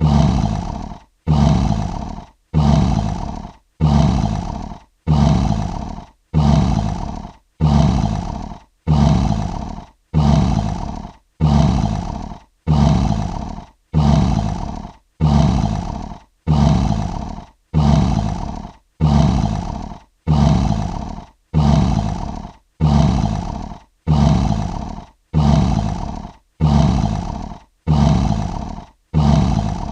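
Lion roaring, a short roar repeated about every 1.3 seconds, each one starting loud and fading out before a brief silence. The identical, evenly spaced repeats are those of a looped sound-effect sample.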